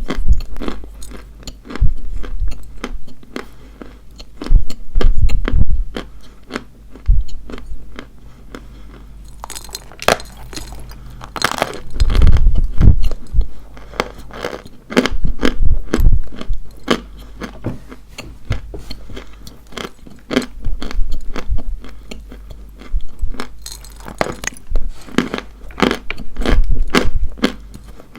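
Dry white chalk being bitten and chewed: dense crackly crunches in irregular bursts, with quieter chewing between.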